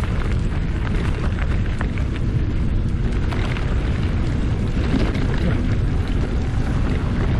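Steady low wind rumble buffeting the microphone during a bike ride, with scattered light clicks and rattles.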